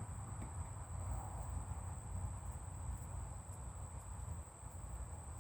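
A steady, high-pitched insect trill, like crickets, over a low rumble and a few faint clicks.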